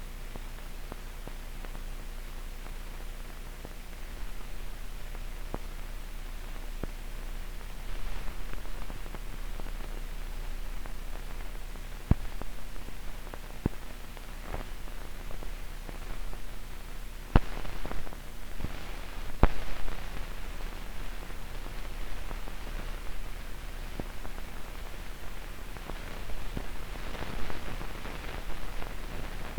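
Old film soundtrack with no programme sound: steady hiss and faint hum, broken by scattered crackles and pops, a few sharper ones past the middle.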